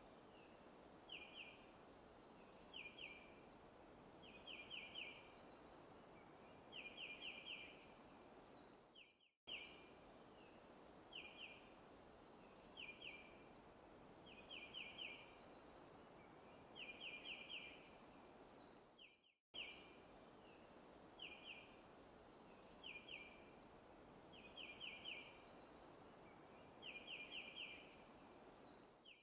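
Faint looped forest ambience: a bird calling in short bursts of one to four quick chirps over a steady soft hiss. The same ten-second recording cuts out and restarts twice.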